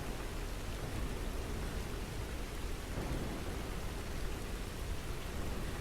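Steady rain falling, an even hiss of rain with no single drops or thunderclaps standing out.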